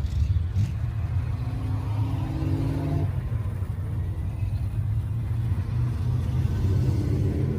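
Car engines rumbling steadily as cars pull out and drive past, one engine's note rising a little in the first few seconds.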